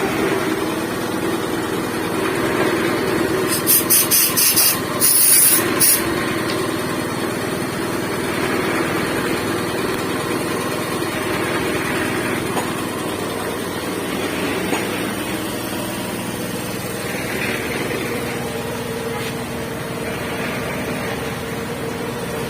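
Steady drone of a building-site concrete mixer's engine running. About four seconds in, a short chopped burst of hissing cuts in for a couple of seconds.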